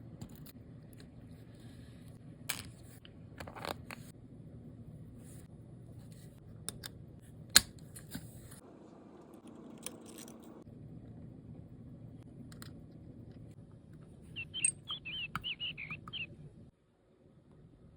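Small sharp clicks and taps of watchmaker's tools on the metal parts of a watch movement, over a low steady hum; near the end, a quick run of high chirping tones.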